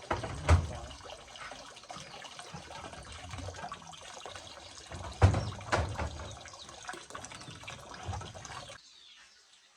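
Water running or splashing, with a few sharp knocks, cutting off suddenly near the end.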